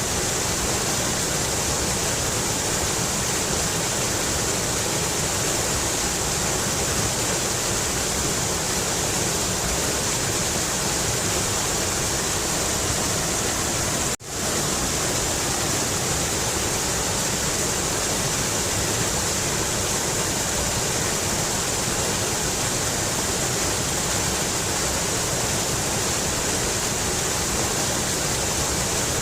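Mountain river rushing steadily, an even wash of water noise with a strong hiss, broken by a momentary drop-out about halfway through.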